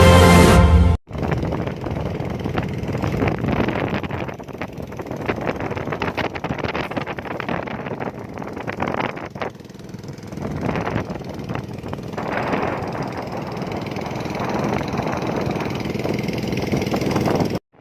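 Wind buffeting the microphone over the steady running of a boat's engine at sea. Theme music cuts off about a second in.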